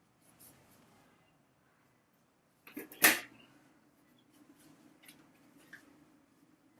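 A sharp knock about three seconds in, just after a smaller one, over faint room noise with a low steady hum.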